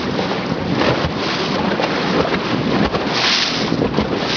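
Wind buffeting the microphone on a boat under way, over a steady rush of water and boat noise, with a brief louder hiss about three seconds in.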